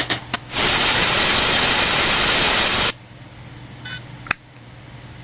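A loud burst of hissing, static-like noise lasting about two seconds that starts and cuts off abruptly, framed by a few short clicks.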